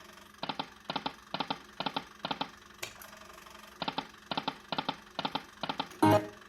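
Video slot machine reel-stop sounds: five short clicking tones land one after another about two a second as the reels stop, a pause follows, then another run of five. A louder short sound comes near the end.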